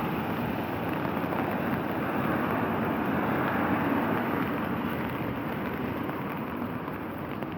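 Steady noise of rain falling, with wind on the microphone.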